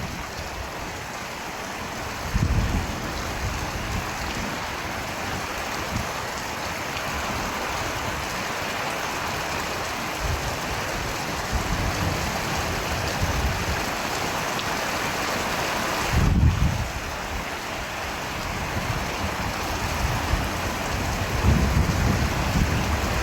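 Steady, heavy rain falling, a continuous even hiss, with brief low rumbles about two seconds in, about sixteen seconds in and again near the end.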